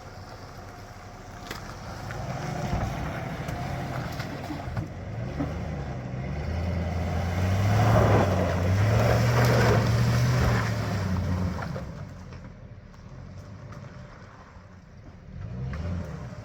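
A GMC pickup's 350 V8 engine pulling as the truck is driven off-road. The revs climb about halfway through, hold high for a few seconds with a rush of noise, then ease off, with a short rise again near the end.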